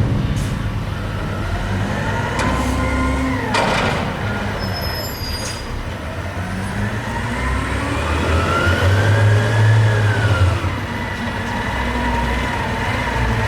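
Garbage truck working: its diesel engine revs up under load while the hydraulic system whines, rising and falling. A short hiss of air comes a few seconds in, and the engine and whine swell loudest near the end before easing off.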